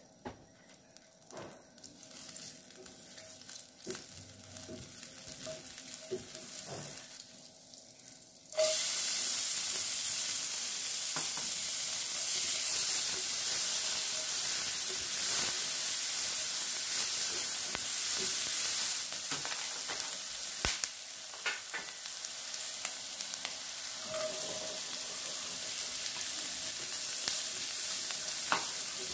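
Butter melting in a stainless steel frying pan with small scattered crackles, then about eight and a half seconds in chopped onions go into the hot butter and a loud, steady sizzle starts suddenly. The frying carries on to the end, with a silicone spatula stirring and scraping the pan and diced carrots added to the sauté.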